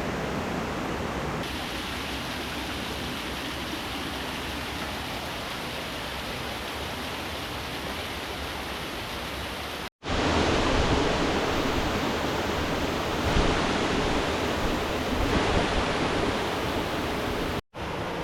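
Rushing river water, a steady noise like a waterfall. It cuts out for an instant twice, and it is louder after the first break.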